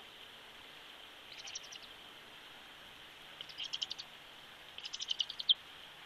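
A bird giving three quick series of rapid, high-pitched chips over a steady background hiss. The last series ends on a louder down-slurred note.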